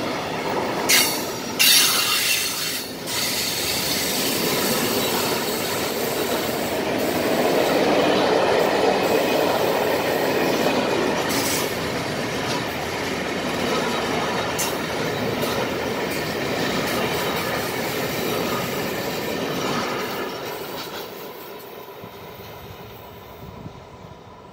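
Freight wagons of a slow-moving intermodal train rolling past close by: a continuous rumble of wheels on rail, with two brief sharp noises about one and two seconds in. The sound fades away over the last few seconds as the end of the train moves off.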